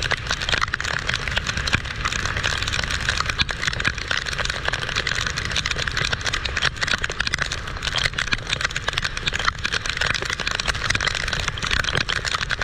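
Heavy rain pouring steadily, with many sharp drop hits close by and a low rumble underneath.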